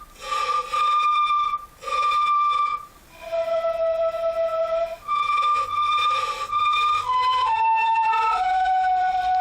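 Granular synthesizer playing a recorded audio file backwards, giving held, flute-like pitched notes: a few long tones with short breaks, then several shorter notes stepping down in pitch near the end.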